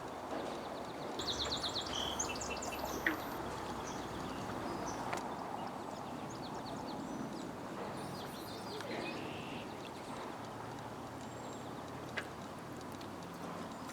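Songbirds chirping over a steady outdoor background noise, with a quick trill of rapid notes about a second in and scattered short calls after.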